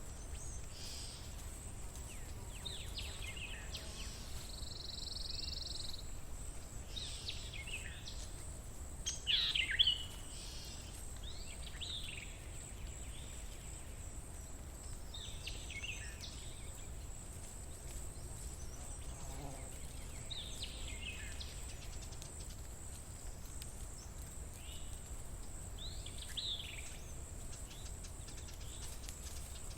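Wild birds calling in short chirps and quick down-sweeping notes every couple of seconds, loudest about a third of the way in. Under them run a steady thin high tone and a low rumble of outdoor background noise.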